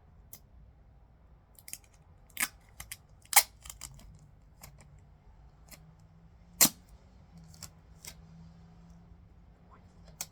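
Scissors making a handful of short, sharp snips at irregular intervals while cutting pieces of tape.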